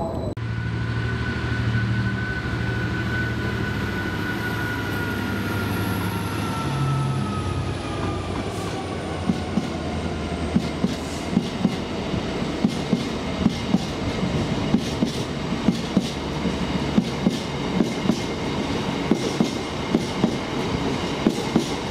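A train passing close by. A steady low hum and a whine that slowly falls in pitch come first. From about nine seconds in, the wheels start clacking in a regular run over the rail joints.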